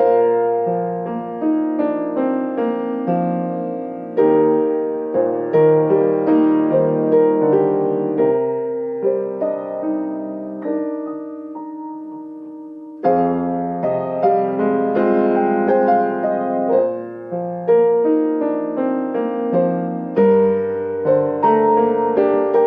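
Solo piano playing chords under a melody. A chord is held and fades out from about nine seconds in, then the playing comes back in fuller and louder about four seconds later.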